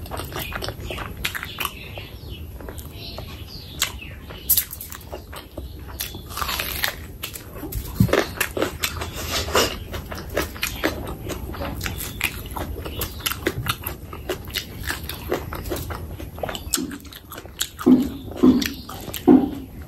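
Close-miked, wet chewing and biting of curry and rice eaten by hand, with many small sharp mouth clicks. Near the end come a few louder, short, low mouth sounds.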